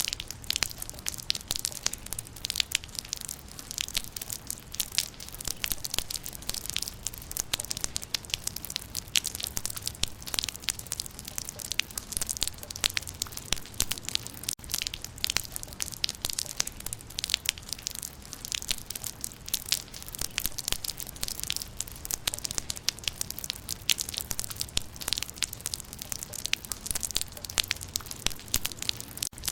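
Rain falling on leaves: a dense, continuous patter of many small drop impacts.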